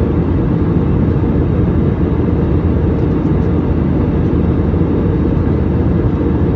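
Steady cabin noise of an airliner in flight: an even, low-pitched rumble of engines and rushing air.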